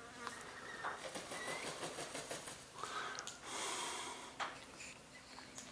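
Birds calling as they feed: short chirps and a harsh, buzzy squawk about three and a half seconds in, with a sharp click soon after.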